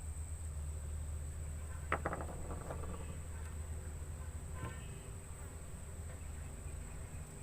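Steady high-pitched insect drone, with a low rumble underneath; about two seconds in, a sharp click followed by a short rattle, and a fainter click near the end.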